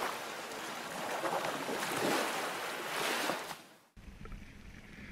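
Steady rushing noise, loud and even, that fades out about three and a half seconds in. Then an abrupt change to a quieter low wind rumble on the microphone with a few small clicks.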